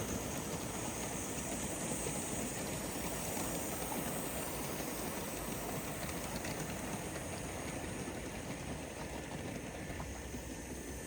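Gauge 1 live-steam model locomotive running on its track: a steady noise with no clear exhaust beat.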